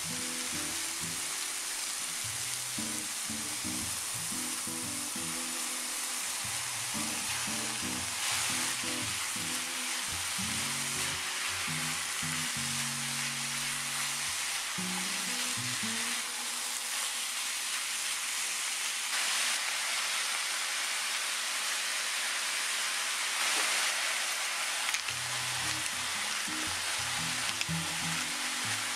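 Diced onion, carrot, celery and ground beef sizzling steadily in a frying pan as they are stirred with a spatula, over background music.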